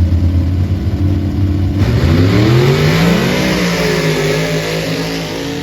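Dirt drag racing truck's engine held at high revs on the line, then launching: the pitch climbs steeply for about a second and a half and levels off high as the truck runs down the track. The sound starts abruptly.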